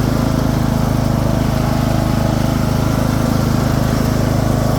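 Small single-cylinder-class engine of a Craftsman II lawn tractor running steadily at a constant speed, with an even, pulsing exhaust note.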